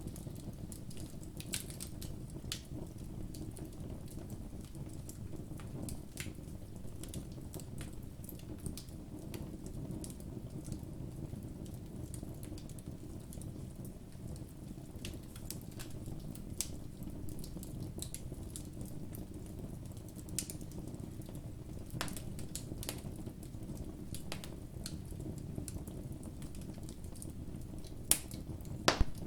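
Campfire burning: wood crackling and popping irregularly over a steady low rumble of flame, with a few louder pops near the end.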